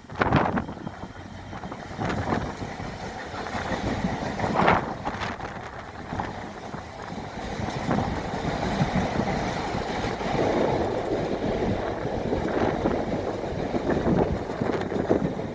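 Wind buffeting the microphone in gusts over a steady outdoor noise, which grows a little louder in the second half.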